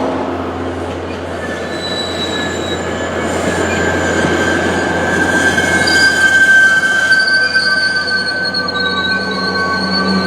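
Passenger train rolling past with its wheels squealing on the rails: several high, steady squealing tones over a continuous rumble, the squeal growing stronger about halfway through.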